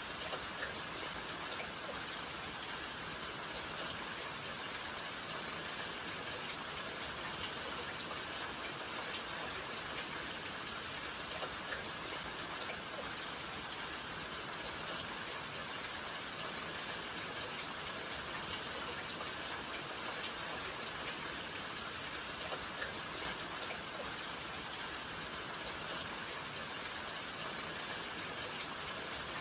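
Steady rain falling: an even hiss with scattered single drops tapping through it.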